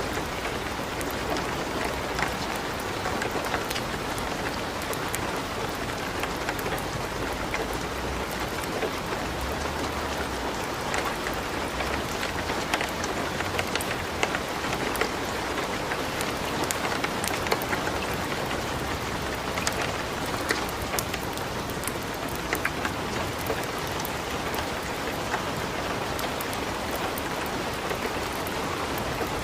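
Light rain falling steadily, mixed with the crackling and popping of a wood fire burning in a fireplace, with short sharp crackles scattered throughout.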